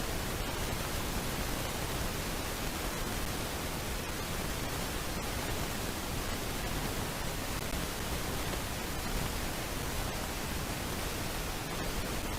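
Steady, even hiss of noise on a nest camera's microphone, with no bird calls or other distinct sounds.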